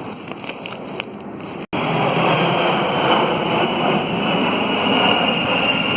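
Steady vehicle noise with a high whine that falls slowly in pitch, coming in after a sudden break in the sound near the start.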